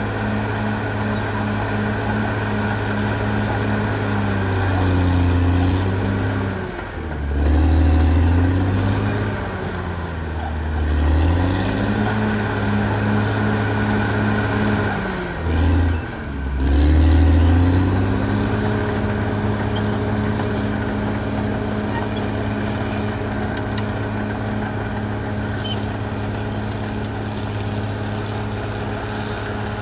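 Caterpillar D6R XL bulldozer's diesel engine running hard. Its note dips and recovers several times between about four and eighteen seconds in as the engine takes load, then runs steadily.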